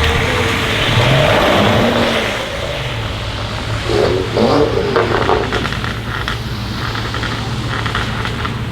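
A car engine revving hard as it accelerates away, loudest and rising in pitch over the first two seconds. It then settles to a steady low engine hum.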